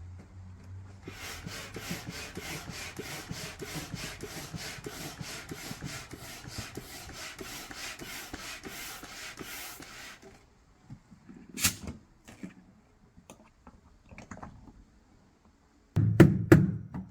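Air being pumped into the lower chamber of an inflatable flood barrier: a rhythmic rush of air, about three strokes a second, that stops after about nine seconds. Then comes a sharp click and a few light knocks, and loud thuds near the end.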